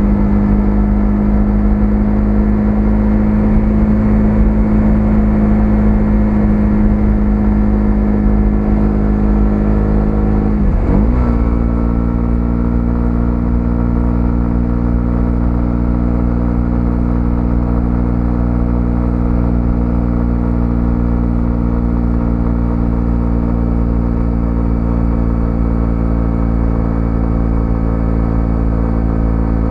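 125cc single-cylinder motorcycle engine running at steady revs on the move. About eleven seconds in its note briefly dips, then settles into a new steady, slightly lower pitch.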